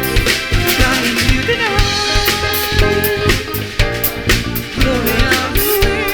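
A band playing an upbeat song: a steady drum-kit beat under bass and a melody line that slides in pitch.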